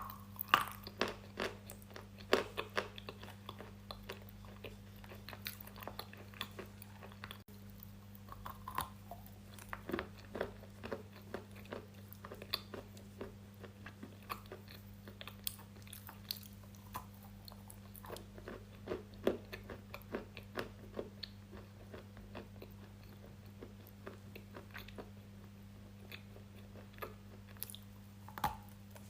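Close-miked ASMR chewing and biting of crunchy food, with irregular crisp crunches throughout over a steady low hum.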